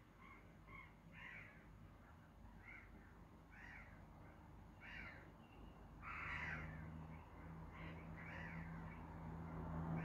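Faint, harsh, caw-like bird calls repeated about once every second or so, the loudest about six and a half seconds in. A low steady hum comes in about six seconds in.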